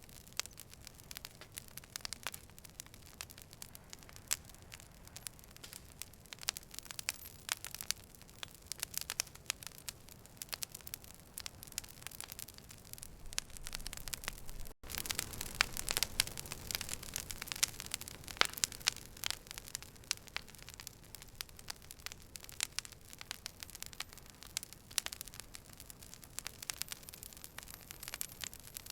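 Campfire crackling: frequent sharp, irregular pops and snaps over a soft steady hiss. The sound cuts out for an instant about halfway through.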